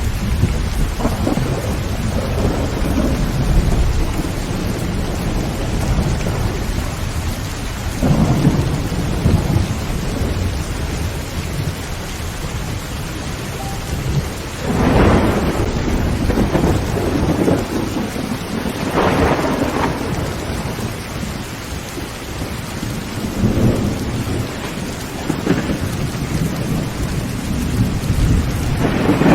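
Heavy rain falling on a tin tent roof, with thunder rumbling again and again; the rumbles swell and fade, the strongest about fifteen and nineteen seconds in.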